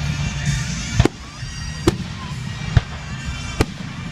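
Fireworks going off: four sharp bangs a little under a second apart, over a steady low rumble.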